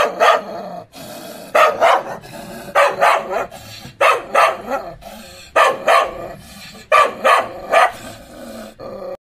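A dog barking over and over, one bark or a quick pair of barks about every second and a bit, with short pauses between.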